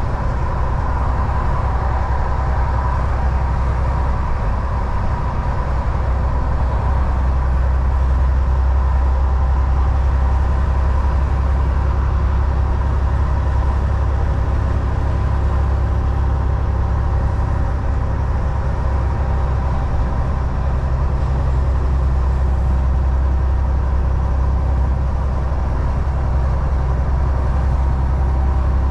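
Semi truck heard from inside the cab while cruising: a steady low diesel drone with tyre and road noise and a faint steady whine, unchanging throughout.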